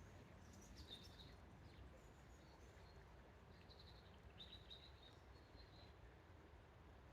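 Faint small-bird chirps and calls, a few short high notes about a second in and again from about four seconds, over a low steady background rumble.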